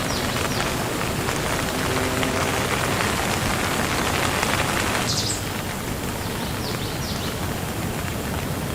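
Steady rain falling, an even hiss of many drops; about five seconds in the sound shifts and becomes slightly quieter.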